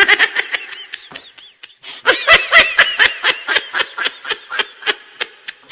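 Rapid, high-pitched, laughter-like giggling in quick repeated syllables, pausing briefly about a second and a half in, then resuming faster and louder before thinning near the end.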